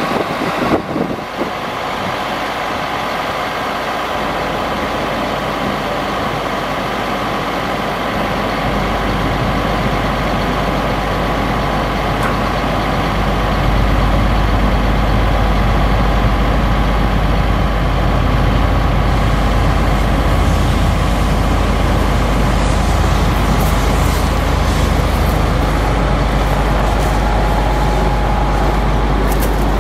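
Chevrolet C7500 medium-duty truck running steadily, its low rumble growing louder in steps over the first dozen seconds.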